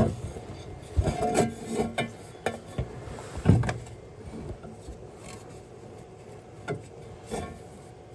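Scattered metallic clinks, knocks and rubbing of metal parts and tools being handled and fitted, the loudest knock about three and a half seconds in.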